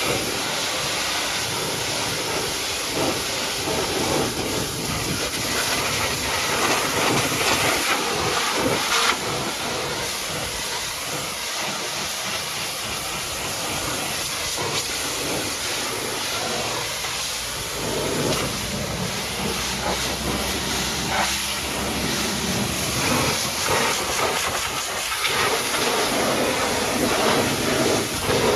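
High-pressure washer jet spraying mud off a truck: a steady hiss that rises and falls a little as the jet moves over the surface.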